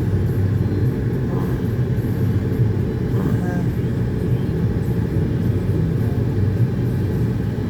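Steady low rumble of an automatic car wash's machinery heard from inside the car's cabin.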